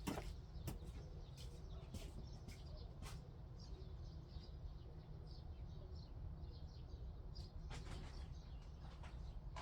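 Scattered scrapes and knocks of hand tools working soil, several near the start and a cluster late on, with faint bird chirps in between.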